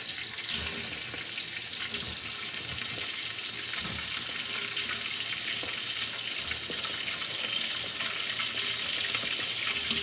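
Washed chicken pieces frying in hot oil with garlic-ginger paste in a large pot: a steady sizzling hiss with a few faint knocks.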